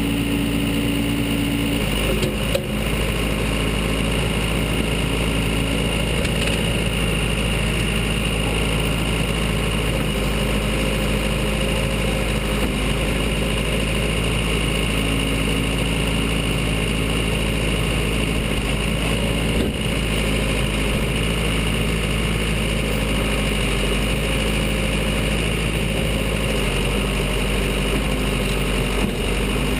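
Case 580 Super L backhoe's four-cylinder diesel engine running steadily, with a few brief knocks: one about three seconds in, one near the middle and one near the end.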